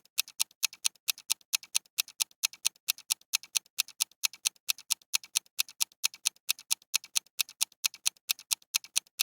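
Ticking-clock countdown sound effect: evenly spaced ticks, about three a second, alternating loud and soft, marking the time to answer in a quiz.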